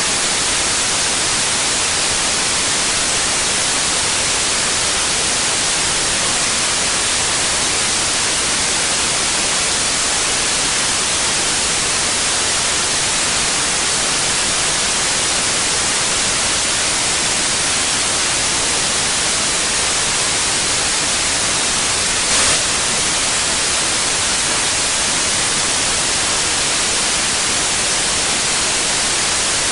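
Steady white noise: an even, hissing static that stays constant in level. There is one brief tick about three quarters of the way through.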